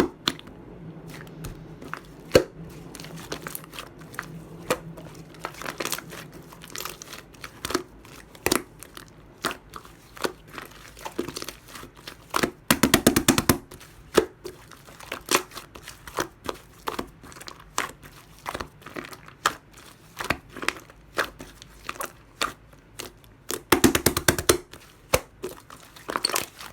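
Clear glitter slime being handled and pressed, giving scattered sticky clicks and pops, with two bursts of rapid crackling pops, one about halfway through and one near the end.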